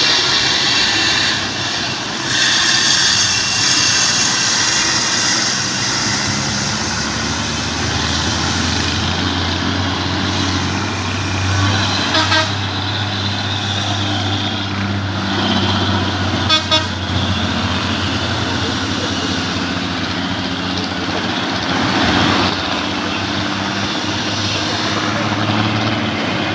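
Heavy truck's diesel engine running under load on a steep climb, with two short horn toots about 12 and 17 seconds in.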